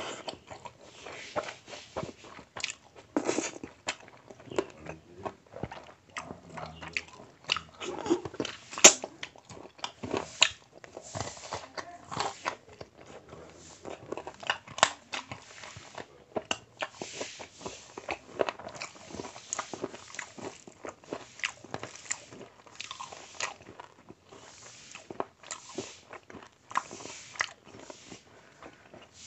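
Chewing and biting as a man eats mutton curry and basmati rice by hand: irregular short clicks and smacks from the mouth, the loudest about nine seconds in.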